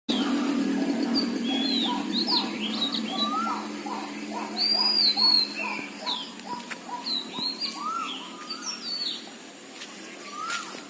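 Several birds chirping and calling, with short rising and falling notes and a quick repeated series of notes in the middle, over a low steady hum.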